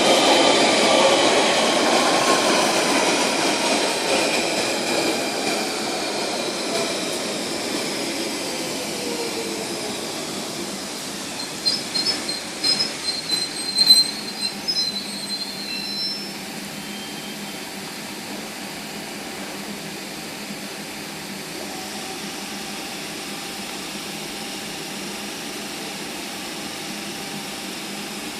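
London Underground 1992 stock Central line train braking into the platform. Its motor whine falls in pitch over about ten seconds. A cluster of short high brake squeals follows as it comes to a stop, then a steady hum while it stands.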